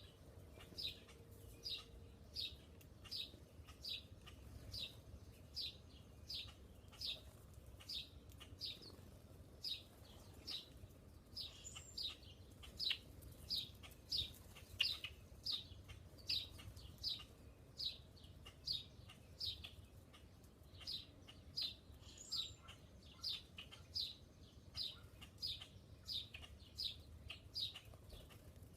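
A songbird calling one short, falling chirp over and over at an even pace of nearly two a second.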